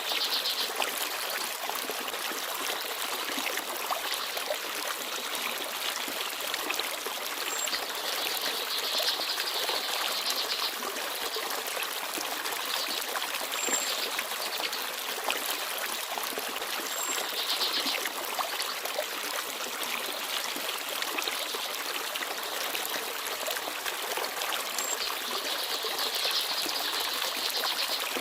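Forest stream running and babbling steadily over stones, with a few brief, faint, high chirps from small birds.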